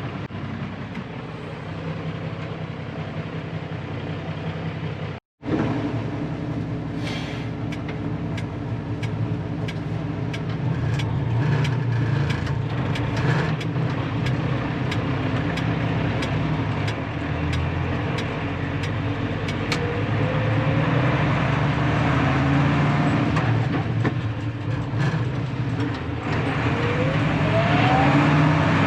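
A 1983 Unimog U1700L's six-cylinder diesel engine running as the ex-army truck gets under way, with rising whines as it accelerates through the gears later on. The sound cuts out completely for a moment about five seconds in.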